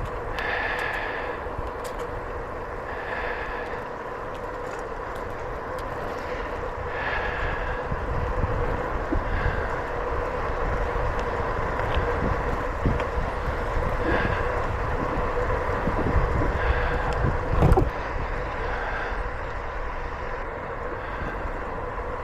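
Bicycle riding noise: tyre rumble with wind buffeting the microphone, a faint steady hum underneath. Short pitched calls break in every few seconds.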